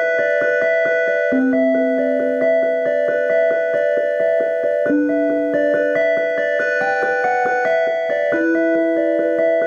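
Solo piano-voiced keyboard playing a flowing pattern of quick notes, about four or five a second, over a held low note that changes every three to four seconds.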